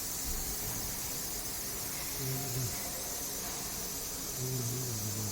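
A steady hiss, with low voices talking faintly in the background now and then.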